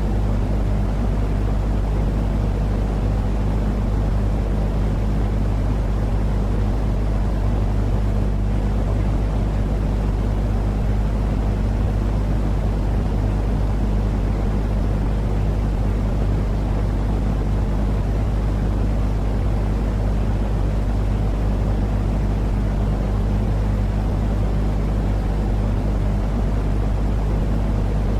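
Steady, unchanging low droning noise with a deep hum underneath: a continuous white-noise track for helping a baby sleep.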